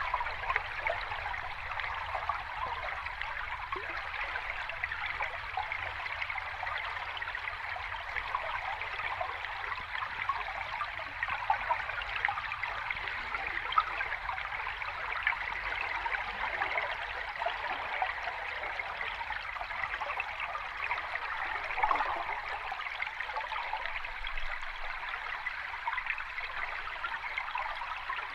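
Water cascading steadily, splashing and trickling, with small bright splashes flickering through an even rush and no deep rumble.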